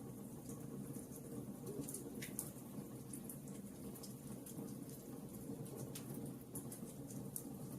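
Wood fire burning in a fireplace: a steady low rumble of flames with scattered sharp crackles and pops, one stronger pop a little over two seconds in.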